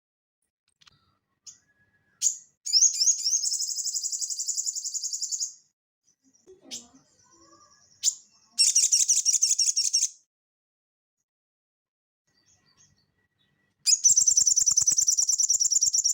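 A sogon sunbird singing in fast, high-pitched trills, three bursts in all: one about three seconds long near the start, a shorter one in the middle and another near the end. A few short chirps come between the bursts.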